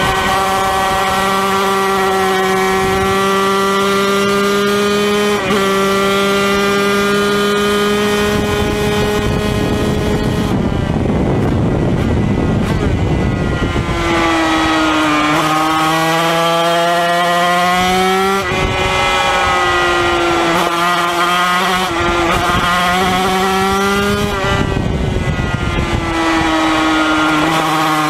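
Yamaha TZ250 two-stroke racing engine running hard, heard from the bike with wind rushing past. Midway the engine note drops out under the wind for a few seconds, then comes back, its pitch stepping several times.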